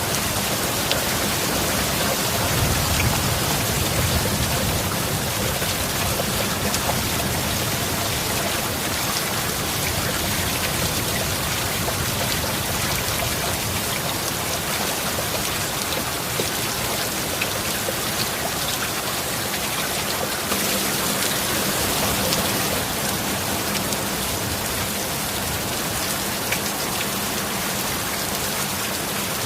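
Heavy steady rain, a dense even hiss with scattered drops ticking, and a low rumble swelling briefly a few seconds in. A faint steady low tone sits underneath.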